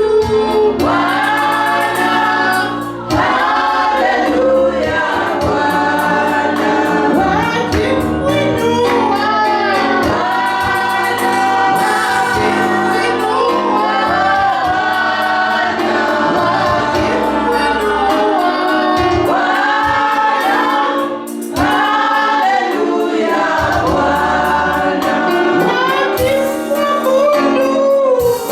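Choir and congregation singing a gospel worship song with instrumental accompaniment, the singing pausing briefly twice.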